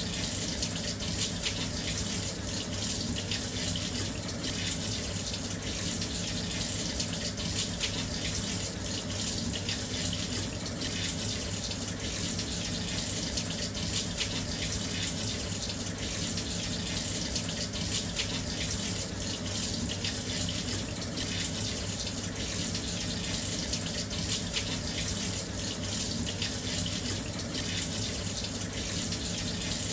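Washing machine filling with water: a steady, continuous rush of water flowing into the drum.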